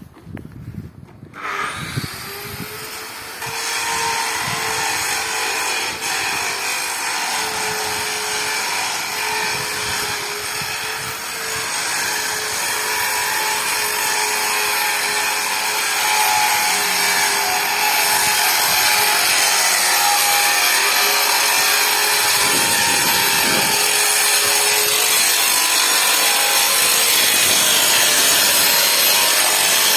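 A handheld power tool starts about a second and a half in, its whine rising quickly to full speed, then runs steadily under load with a harsh cutting or grinding noise. It grows louder about four seconds in and again past the middle.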